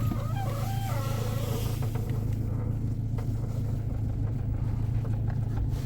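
Car engine idling with a steady low hum, and for the first couple of seconds a wavering creak of rubber rubbing on metal as the steering wheel is turned, which the owner puts down to worn strut top mount bearings.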